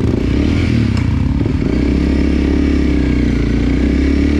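Enduro dirt bike engine running at a fairly steady throttle, dipping briefly about a second and a half in.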